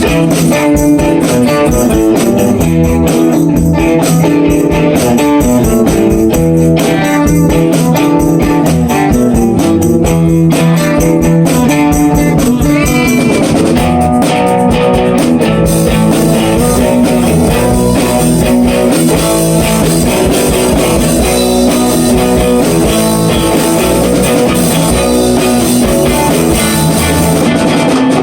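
Rock band jamming a bluesy riff: electric guitar playing over a drum kit, loud and continuous.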